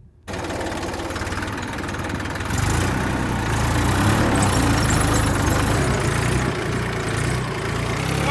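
Tractor engine running steadily, getting louder about two and a half seconds in as it picks up revs.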